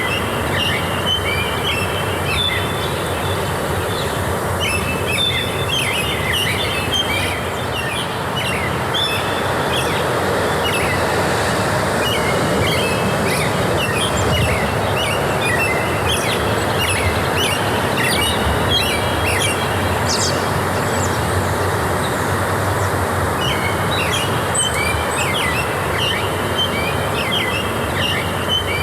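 Many small birds chirping and twittering in quick, repeated phrases over a steady rushing noise, in forest ambience.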